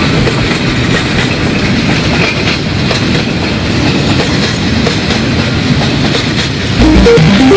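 Train running on the rails, wheels clattering over the rail joints with a steady rumble. Music comes in near the end.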